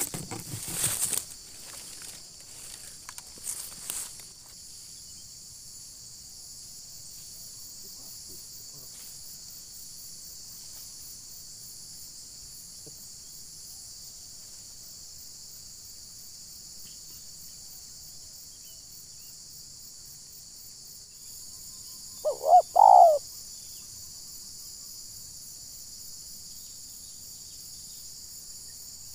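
Spotted dove (terkukur) cooing once, a quick three-note coo about three-quarters of the way through, over a steady high drone of insects. A few rustles and knocks in the first few seconds.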